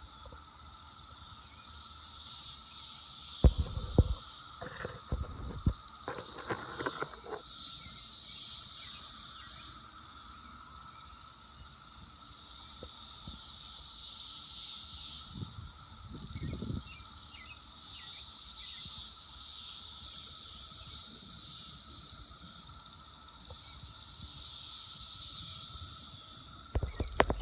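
Brood X periodical cicadas chorusing, a dense, high-pitched buzzing that swells and fades every few seconds over a steadier lower drone. A few short low thumps break in around four to six seconds in and again near the middle.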